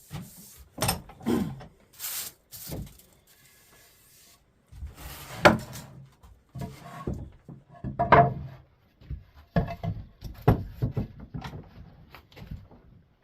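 Wooden boards and hand tools being handled on a workbench: scattered knocks and clunks with a few short scrapes of wood on wood.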